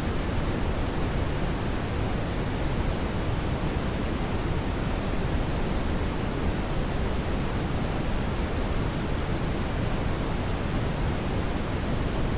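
Brown noise: a steady, even rushing hiss weighted toward the low end, without changes or distinct events.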